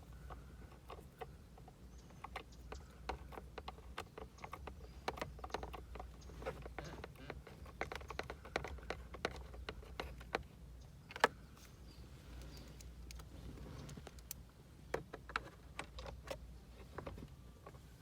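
Irregular light clicks and taps of hand tools and plastic steering-wheel parts being handled, with one sharper click about eleven seconds in, over a low steady hum.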